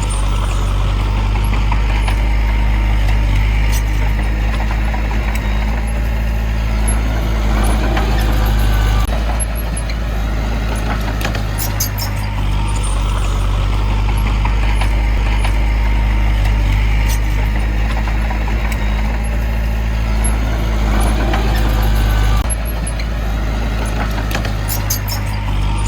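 Diesel engine of heavy earthmoving equipment running steadily under load, its level dropping briefly about nine seconds in and again near the end, with sharp metallic clinks around twelve seconds and near the end.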